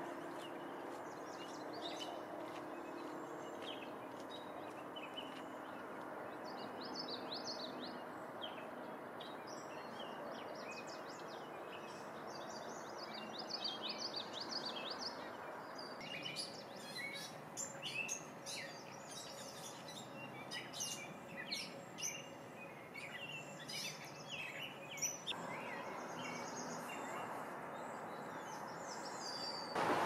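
Wild birds chirping with many short, high notes that grow busier through the middle, over a steady outdoor background hiss that shifts in character twice.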